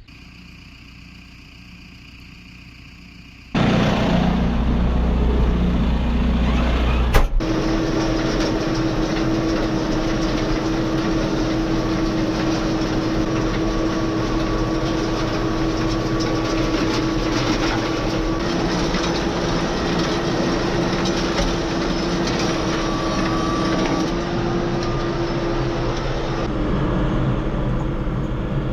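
An engine running steadily after coming in suddenly and loudly about three and a half seconds in, with a single sharp knock a few seconds later.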